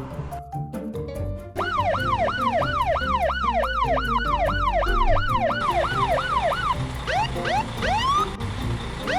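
Toy police car's electronic siren sounding in quick rise-and-fall sweeps, about two and a half a second. After about seven seconds it changes to a slower pattern of separate rising whoops. A simple tune plays underneath.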